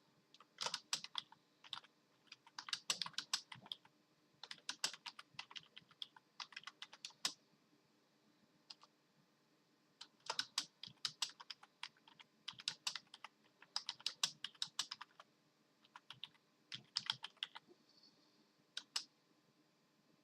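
Computer keyboard keys clattering in short, irregular flurries of rapid presses with brief pauses between them, mashed at random by a pet typing nonsense.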